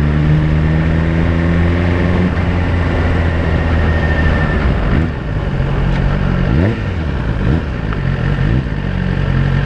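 Suzuki GSX-R1000 inline-four with a Yoshimura exhaust, ridden at low revs: the engine note rises steadily for about two seconds, drops away, then picks up again with a few short rises in pitch and steadies near the end.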